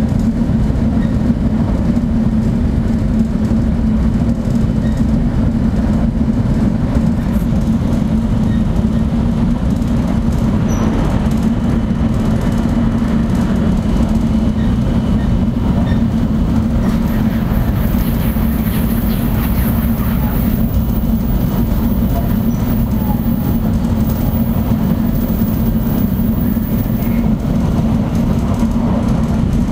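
Shinkansen bullet train running, heard from inside the passenger cabin: a steady low rumble with a strong hum. A faint high hiss joins past the middle for about ten seconds.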